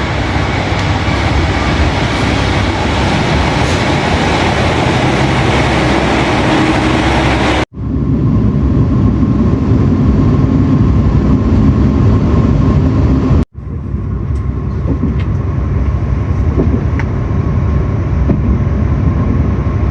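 Train running: a steady, loud rumble and rushing noise, in three separate stretches cut together, with abrupt breaks about 8 and 13½ seconds in.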